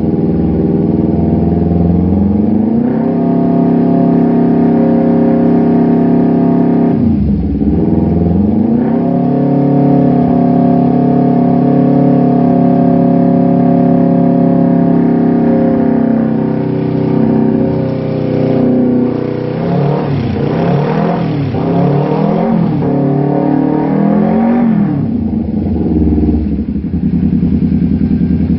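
Motorcycle engine breathing through a Proliner carbon aftermarket exhaust, revved up and held at high revs, dropped and raised again once, then blipped several times in quick succession before settling back to idle near the end.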